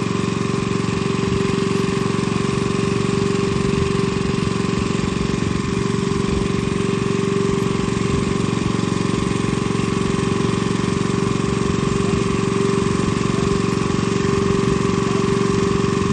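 An engine running steadily at a constant speed, a hum with an even rumble beneath it.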